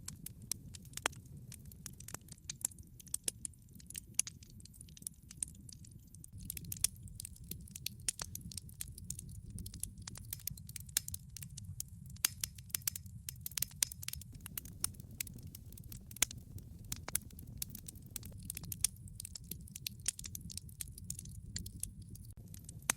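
Wood fire burning in a fireplace, crackling with many irregular sharp pops and snaps, a dozen or so louder than the rest, over a steady low rumble.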